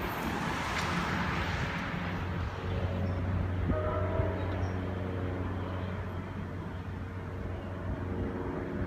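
Distant New Jersey Transit commuter train on the electrified line. The wheel-and-rail rumble fades over the first couple of seconds. After that comes a steady low hum with several held higher tones.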